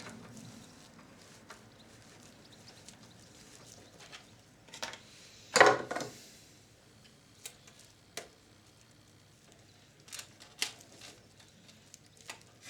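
Scattered clicks and knocks of parts of a video recorder being handled during disassembly. The loudest is a short clattering knock about five and a half seconds in, with a few sharper clicks later on.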